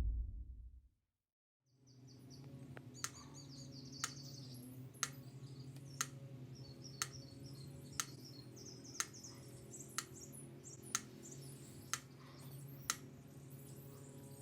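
Faint birdsong chirping over a steady low hum, with a sharp tick about once a second, ten in all.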